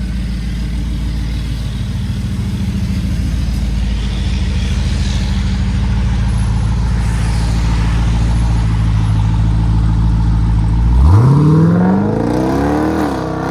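Jeep Grand Cherokee Trackhawk's supercharged 6.2 L V8 running steadily at idle through a Solo Performance cat-back exhaust. About eleven seconds in it is revved once: the pitch climbs sharply, then drops back near the end.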